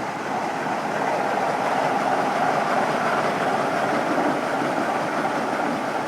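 A train running on the rails: a steady rushing rail noise that grows a little louder in the middle and eases off again.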